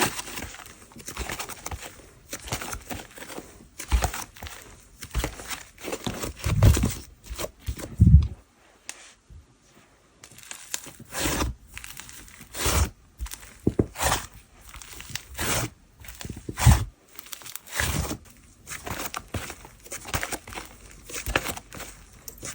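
Whipped-texture slime being stretched, pulled apart and squeezed by hand, giving irregular crackles and tearing pops, with a short pause about nine seconds in.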